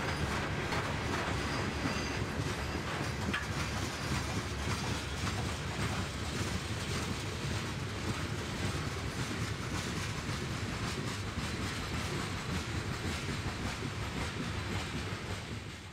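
Coal train rolling along the track, a steady rumble of railcars on the rails with a brief click about three seconds in, fading out at the very end.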